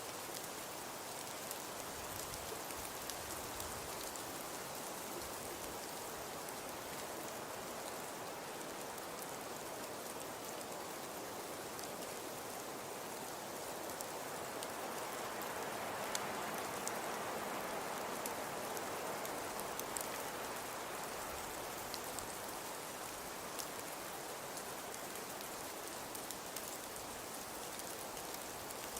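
Fireplace crackling: a steady soft hiss with scattered small crackles and pops, swelling a little around the middle.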